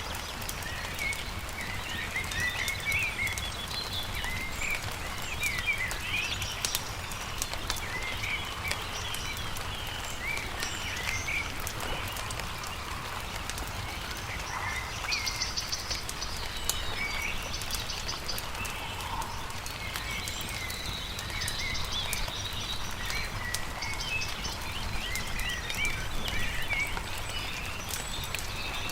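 Songbirds chirping and calling throughout in short phrases, with a few quick trills, over the crackle and pop of a wood campfire and a low steady rumble.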